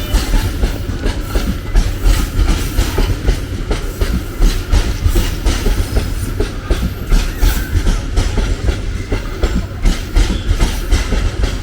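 Train passing close by: a steady heavy rumble of railcars, with the wheels clacking repeatedly over the rail joints.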